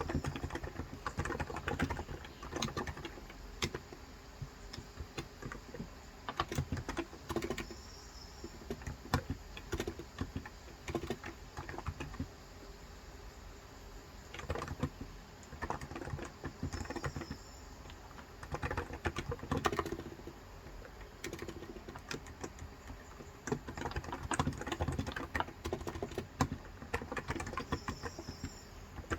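Fast typing in bursts with short pauses on a Cox Endeavor tenkeyless keyboard with electro-capacitive (Topre-style) 35 g switches, giving soft, muted keystrokes. Faint bird chirps come in a few times in the background.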